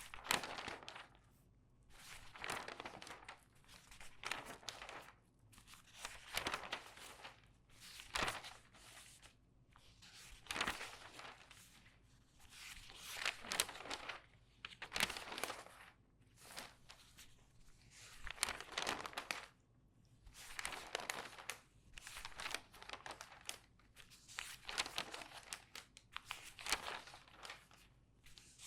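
Pages of a regular newspaper turned quickly one after another, each turn a short papery swish and crinkle, roughly one every second or so.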